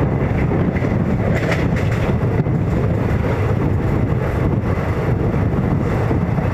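Train in motion: a steady, loud low noise with wind buffeting the microphone.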